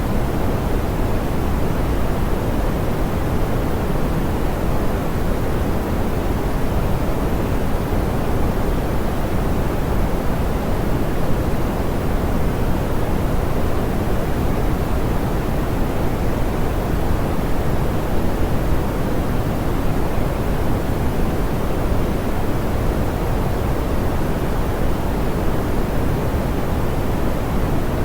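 Steady, soft pink noise: an even, unchanging hiss weighted toward the low end and rolled off in the highs, like a smoothed rush.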